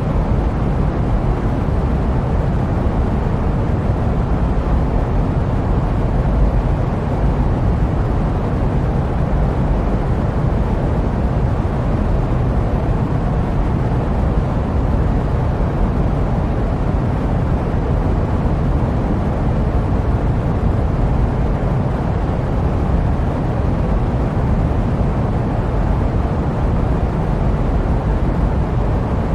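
Steady jet-plane noise: an even, low rumble that does not change.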